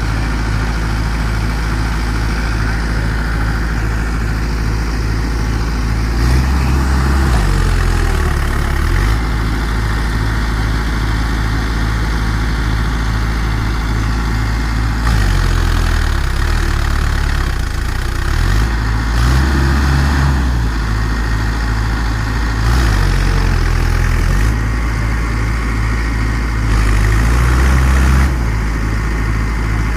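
Mahindra tractor diesel engine running with an even, pulsing beat, rising in level five times for a second or few as it is given more throttle.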